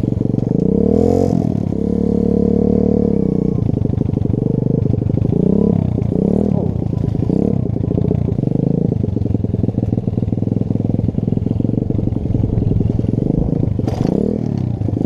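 Pit bike's small single-cylinder engine running, its revs rising and falling several times, with a sharp knock near the end.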